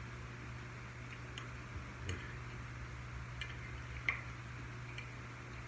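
Quiet eating sounds: a few faint, scattered clicks and light taps, about five or six in all, over a steady low hum.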